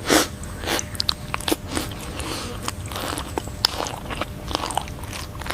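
Spotted deer grazing: irregular crunching bites and chewing on vegetation, with the loudest crunch right at the start, over a steady hiss of ambience.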